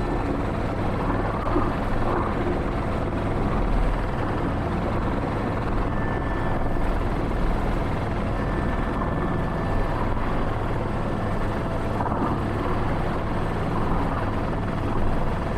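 Airbus H125 (AS350 B3) helicopter heard from inside the cockpit: its turbine engine and rotor running steadily at a slow, near-hover pace.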